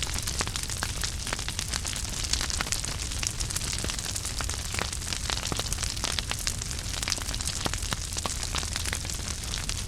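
Wood fire crackling in a fireplace: a dense run of small sharp pops and snaps over a steady low rumble of flame.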